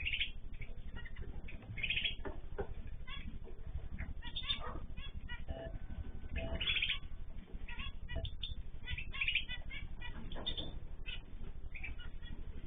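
A flock of small cage birds calling in an aviary: many short chirps and nasal calls overlap and repeat throughout, over a steady low hum.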